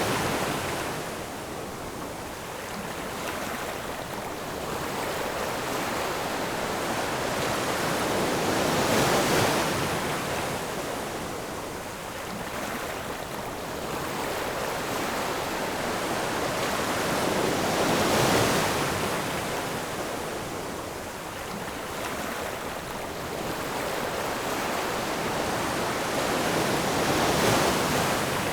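Ocean surf: a steady wash of waves with a breaker swelling up and fading away about every nine seconds, three times.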